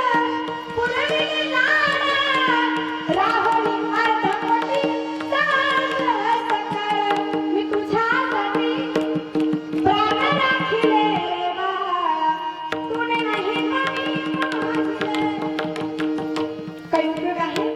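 Devotional kirtan music: a voice singing a wavering, ornamented melody over a steady held drone note and quick tabla strokes.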